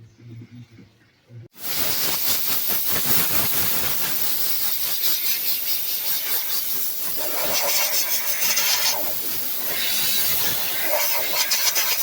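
Compressed air hissing steadily from an air tool, starting abruptly about a second and a half in and swelling slightly in strength now and then.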